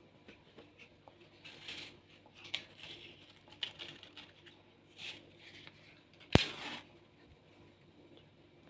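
Soft rustling and handling noises in several short bursts, with one sharp click about six seconds in followed by a brief hiss.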